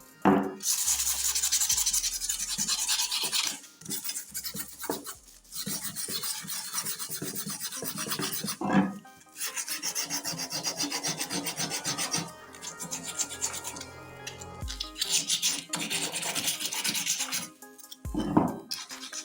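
Abrasive rubbing on a motorcycle brake plate by hand, a rapid rasping scrape that comes in stints of a few seconds with short pauses between.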